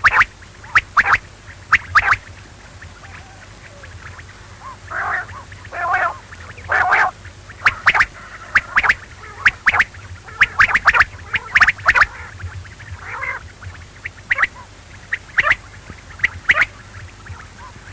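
Quail calling: short, sharp calls repeated in quick clusters of two or three, with a few longer, rougher notes in between.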